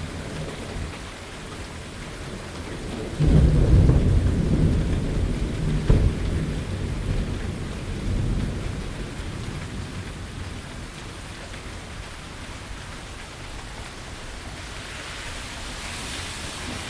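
Steady rain falling, with a clap of thunder about three seconds in: a sudden deep rumble that cracks again near six seconds and then dies away over several seconds.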